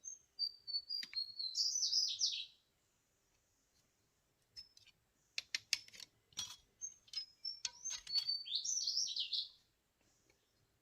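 A songbird singing two phrases about six seconds apart, each a few short high notes running into a fast, tumbling series of notes. Between the phrases come a few sharp clicks or knocks.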